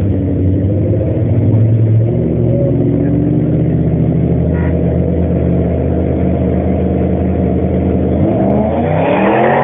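Twin-turbo Mustang and nitrous Camaro engines running steadily, then about eight seconds in revving up hard and climbing in pitch as the cars launch.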